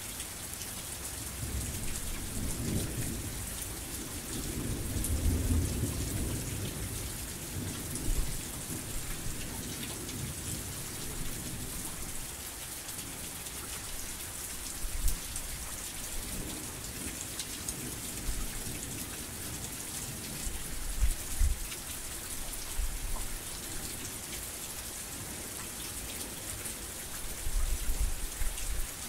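Heavy rain falling steadily in an even hiss. A low rumble swells up a few seconds in, and a few short, dull low thumps come later.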